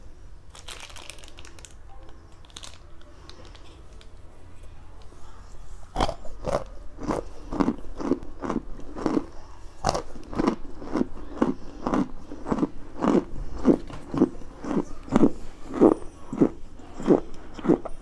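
Close-miked chewing of a mouthful of hard-packed cornstarch chunks: crunching in a steady rhythm of about two bites a second, starting about six seconds in after a quiet stretch.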